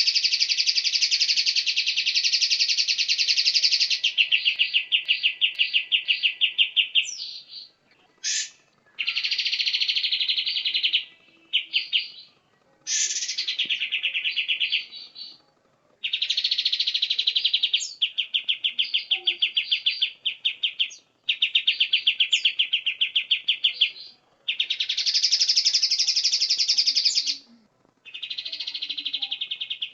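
Recorded songbird song: fast, high-pitched chattering trills delivered in phrases a second to a few seconds long, separated by short pauses.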